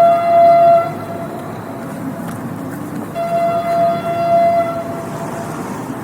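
Train horn blowing at one steady pitch. The first blast ends about a second in, and a second blast of about a second and a half comes about three seconds in, over the steady rumble of the rolling train.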